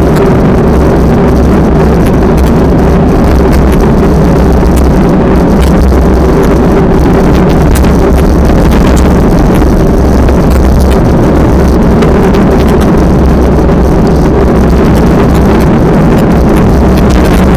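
Strong wind buffeting the microphone in a loud, steady, unbroken rumble.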